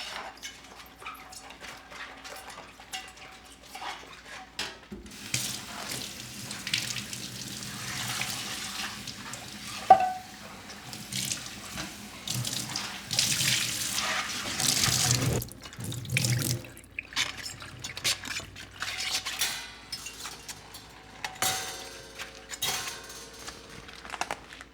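Kitchen tap running into the sink for about ten seconds, with one sharp ringing clink of a dish partway through. Light clicks and clatter of dishes being handled come before and after the water.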